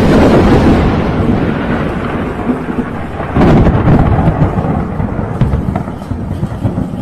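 Thunder: a sudden loud crack that rolls into a long low rumble, with a second rumble swelling about three and a half seconds in and then slowly dying away, over the hiss of rain.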